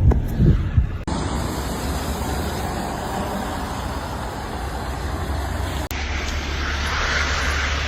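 Road vehicle noise: a steady low rumble with hiss above it, broken by two abrupt cuts, about a second in and near six seconds.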